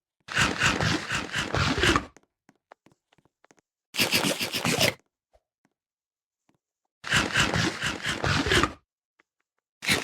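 Three bursts of scraping, rasping noise, each a second or two long, with silence between them.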